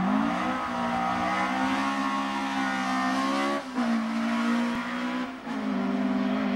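Ford Escort rally car's engine held at high revs under hard driving, a loud, fairly steady note broken twice by short dips.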